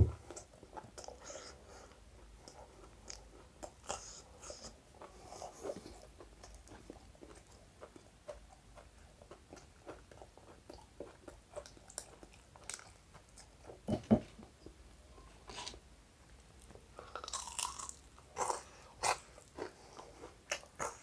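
Someone chewing crispy fried chicken pakora close to the microphone: soft crunches and mouth clicks, with a louder crunchy bite about 14 seconds in and a run of crunching near the end.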